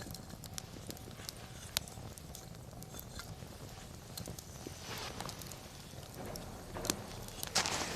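Wood campfire crackling, with a couple of sharp single pops and denser bursts of crackle around the middle and near the end.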